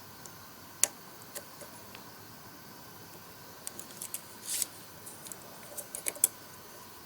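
Scattered sharp clicks and light knocks, with a cluster of them in the second half and a short scraping hiss near the middle.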